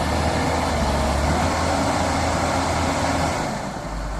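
Heavy machine's engine running steadily with a deep rumble, easing a little about three and a half seconds in.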